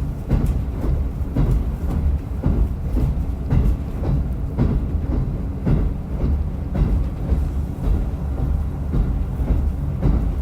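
Diesel railcar running along the line, heard from on board: a steady low engine drone with rail-joint clacks repeating about once a second.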